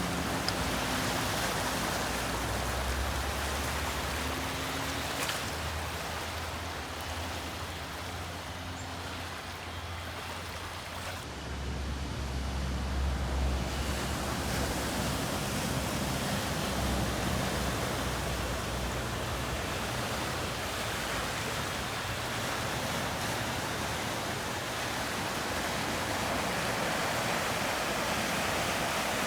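Steady rush of flowing floodwater, with a low rumble that comes and goes in the first half.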